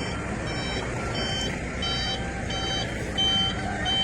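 Truck reversing alarm beeping steadily, about one and a half beeps a second, over a steady low rumble. A second, lower-pitched beeper joins in about halfway through.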